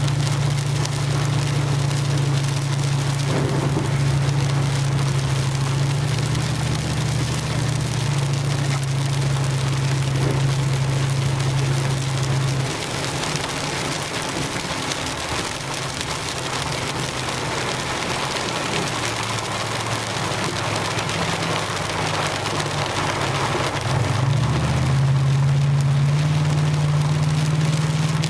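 Heavy rain falling on a truck's roof and windshield while driving, with a steady low engine hum underneath that drops away about halfway through and comes back near the end.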